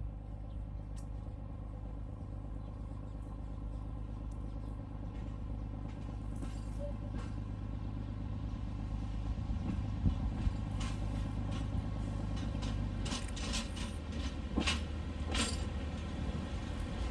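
A diesel engine running with a steady low hum that slowly grows louder. Its pitch shifts about three-quarters of the way through, and several sharp metallic clanks come near the end.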